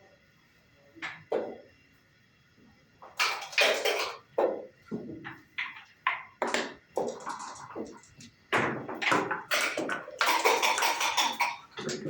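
Backgammon dice rattling and bouncing and checkers clacking on a wooden board: two single clicks about a second in, then from about three seconds a quick run of irregular clacks and rattles.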